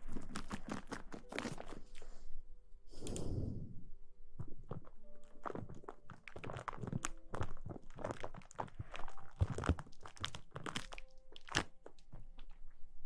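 Close-miked ASMR rustling: dense, irregular crackles and taps right at the microphone, with a brief swish about three seconds in.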